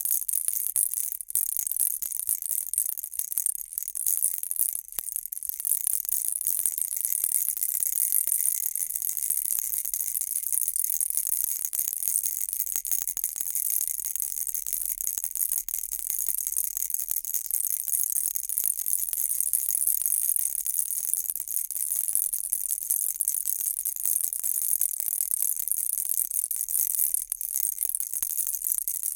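Baby rattle shaken steadily and without pause: a dense, high-pitched rattling.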